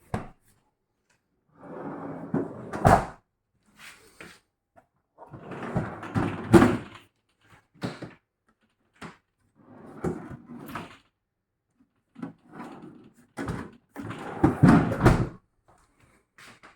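Doors and drawers of a Hisense American-style fridge freezer being opened and shut, over and over. Each stretch of sliding and rubbing ends in a knock as a door or drawer closes, with the loudest shuts about three seconds in, about six and a half seconds in, and near the end.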